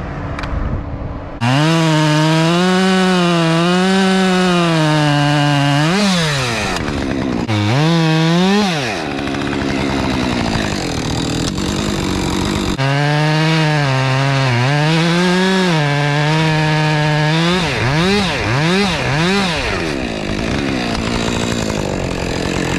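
Chainsaw cutting stubs off a white oak log, held at high revs through two long cuts, one starting about a second and a half in and one about thirteen seconds in, dropping back between them. Quick revs up and down follow each cut.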